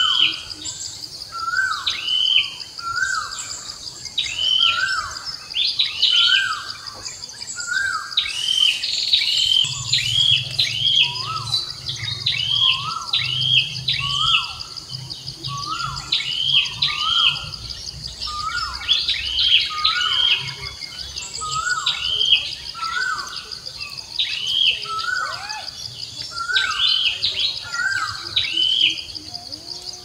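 Birds calling repeatedly, short hooked notes about once a second, over a steady high-pitched insect drone.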